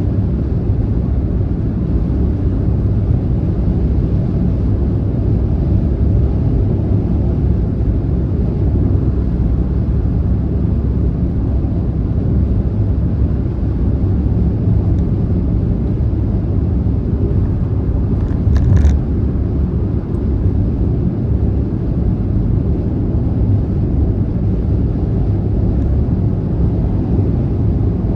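Steady low road and engine rumble of a car driving on a motorway. About two-thirds of the way through there is one brief thump.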